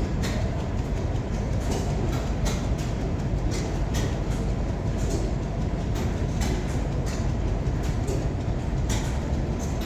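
Steady low mechanical rumble with irregular sharp clicks and knocks, about one or two a second.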